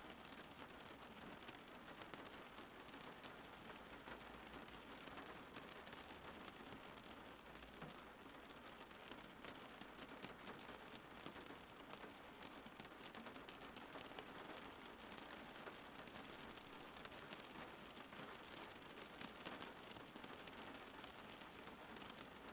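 Steady rain falling, a soft even patter of many drops.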